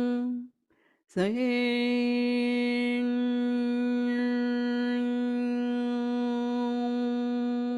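A voice toning one long, steady sustained note. It breaks off briefly under a second in, then comes back with a short upward scoop into the same pitch and holds it.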